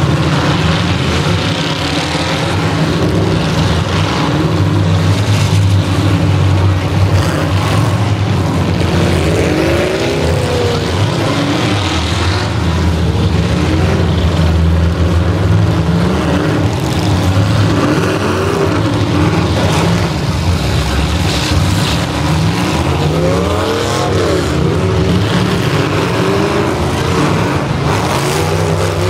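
Several demolition derby cars' engines running together, revving up and down again and again as the cars push and ram each other in the dirt.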